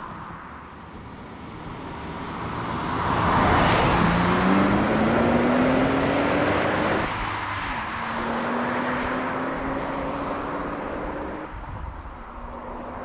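Nissan Z's twin-turbo V6 accelerating hard through the gears: the engine note climbs, drops at an upshift about eight seconds in, climbs again, and drops at another upshift near the end, with road and wind noise loudest early in the pull.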